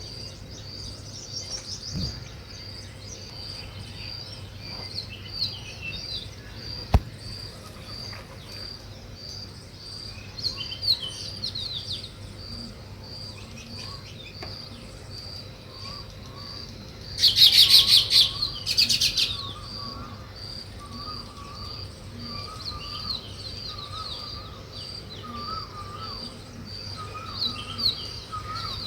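Weaver birds chirping and chattering, with a loud burst of rapid chattering about two-thirds of the way through. A high note repeats steadily underneath.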